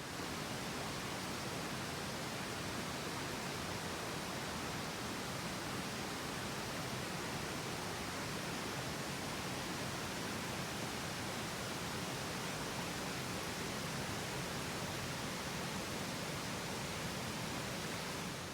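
Steady, even rush of water noise: rain beginning to fall by a mountain stream.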